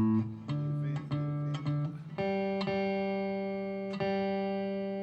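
Guitar picking single notes: a few short plucked notes, then a long ringing note held from about two seconds in.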